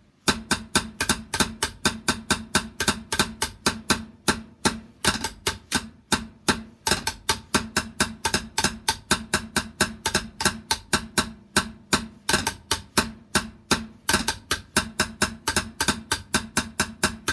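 A drum struck in a rapid, steady beat, about five strikes a second, each stroke leaving a short ring, with a couple of brief pauses in the rhythm.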